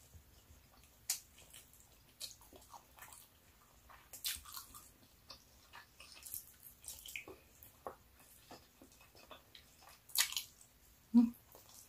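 Close-miked chewing and wet mouth sounds of pork adobo with rice being eaten by hand: scattered smacks and sticky clicks, louder around four seconds in and just after ten. A short low throat sound comes near the end.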